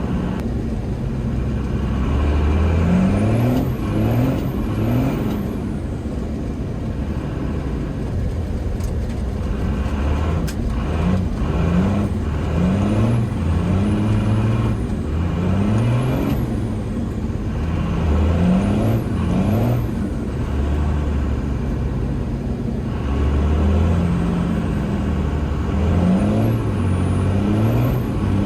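5.9 Cummins inline-six turbodiesel engine revving up and dropping back over and over, with a high turbo whistle rising and falling along with it.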